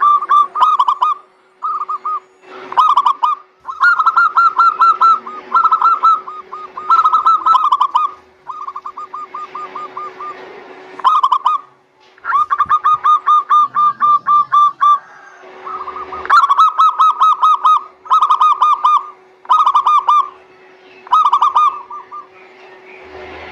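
Zebra doves (perkutut) singing: phrase after phrase of rapid, rolling cooing notes with short gaps between, over a faint steady hum.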